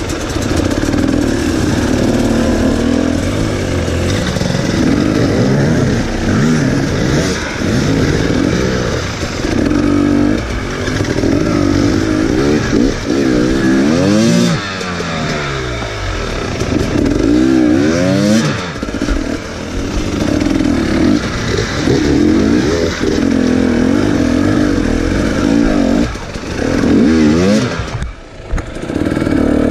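Enduro dirt-bike engine blipped and revved over and over at low speed, picking its way over rocks, its pitch rising and falling every second or two, with the sharpest revs about halfway through.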